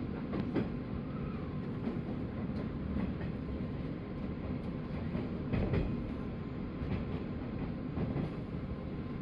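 JR 185 series electric train running: a steady low rumble with occasional clicks of the wheels over the rail joints.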